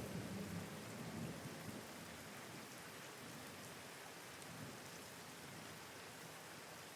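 Steady rain hiss, with the low rumble of thunder dying away over the first two seconds.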